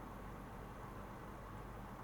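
Ultrasonic cleaner running: a faint, steady hiss with a low hum underneath, unchanging throughout.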